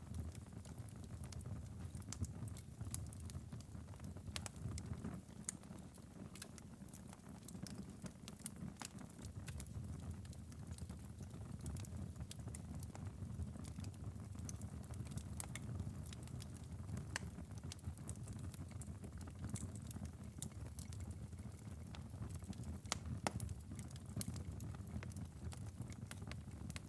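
Wood fire in a fireplace burning with a steady low rumble and frequent small, irregular crackles and pops.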